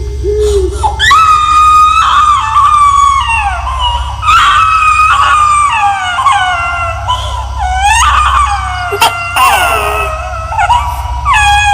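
Horror sound effect of high-pitched, drawn-out wailing cries, several overlapping, each sliding down in pitch over a second or two, above a steady low drone.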